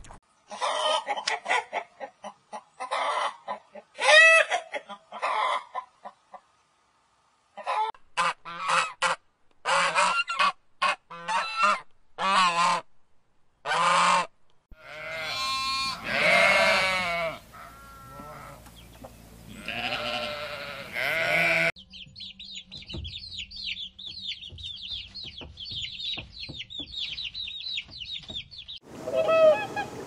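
Animal calls in turn: bursts of short, loud calls through the first half, with a gap of about a second partway through. Then sheep bleating in a few long calls, then rapid high-pitched chirping.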